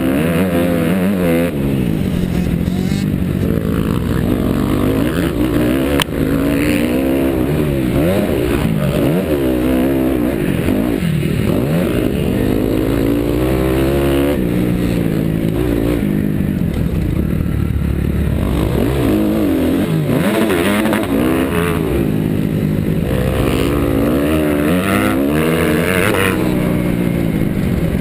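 2009 Honda CRF250R's single-cylinder four-stroke engine under race load, its pitch rising and falling again and again as the throttle is opened and shut around the track. A sharp click sounds about six seconds in.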